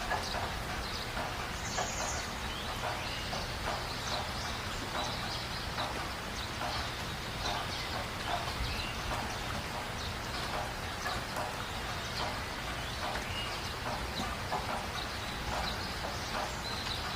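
Light rain: scattered drops and drips ticking irregularly over a steady low hiss, with one brief high chirp about two seconds in.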